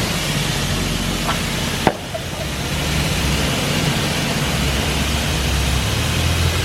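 Self-serve car wash high-pressure wand spraying soap: a loud, steady hiss over a low hum. There is a sharp click about two seconds in, after which the spray dips briefly and then carries on.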